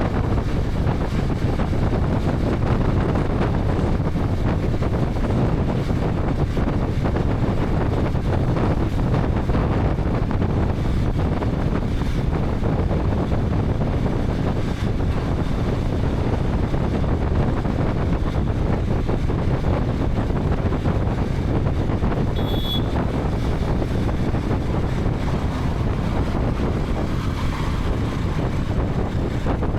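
Wind rushing over a helmet-mounted camera's microphone at riding speed, with the KTM 250 Adventure's single-cylinder engine and tyre noise running steadily beneath. A short high beep sounds about three-quarters of the way through.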